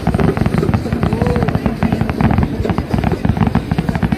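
Rapid barrage of aerial fireworks bursting, a dense run of bangs and crackle that blends into a continuous rumble.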